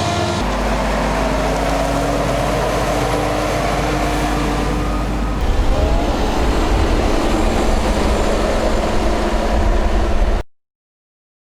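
Heavy diesel silage-harvest machinery running under load: forage harvester and tractor engines, with one tone rising in pitch over the first few seconds. The sound changes abruptly twice, the second time turning louder and deeper, and cuts off suddenly near the end.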